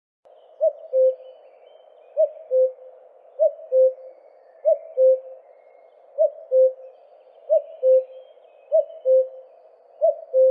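A bird repeating a low two-note call, a short higher note then a lower, held note, eight times at an even pace, over faint background hiss.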